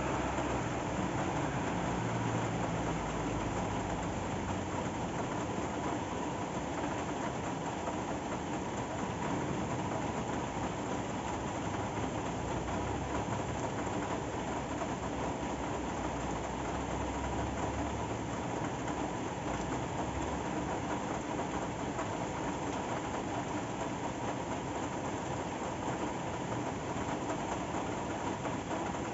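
Steady rain falling, an even hiss without breaks. A low rumble runs underneath and fades out about two-thirds of the way through.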